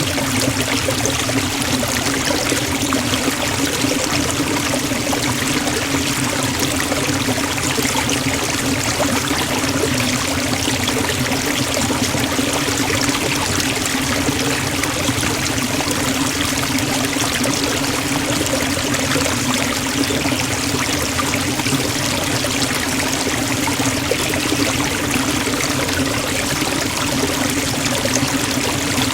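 Waterfall pouring into a forest stream, a steady, unbroken rush of falling water.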